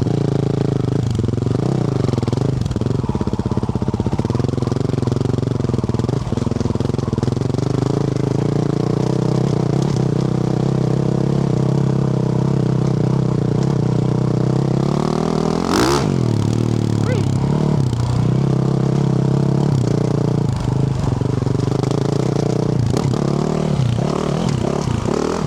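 2024 Yamaha YZ450F single-cylinder four-stroke running through a Yoshimura RS-12 exhaust while riding. It holds mostly steady throttle, with a dip and rise in revs about two seconds in and a sharp climb and drop in revs around sixteen seconds. Near the end the throttle comes on and off unevenly.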